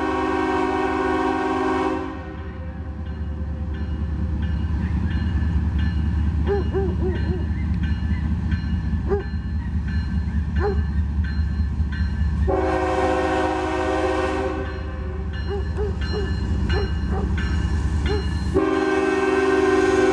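Diesel locomotive's multi-chime air horn sounding three times: a blast about 2 s long that ends early on, another of about 2 s after a long gap, and a third starting near the end. Under the horn, the deep, steady rumble of the passing train runs throughout.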